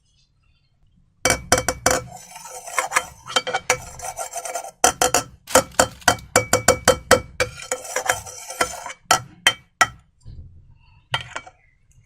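A hard utensil stirring and scraping slime in a bowl, with quick clicks and clinks against the container and a rubbing scrape. It starts about a second in, pauses briefly near the middle and thins out near the end.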